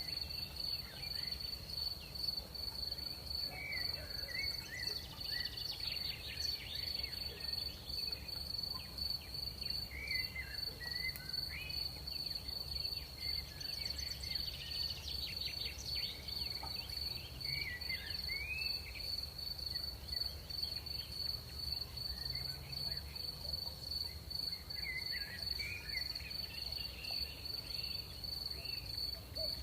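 Crickets trilling in one steady, unbroken high note through the night, with short chirping calls coming and going over it and a low steady rumble of night air underneath.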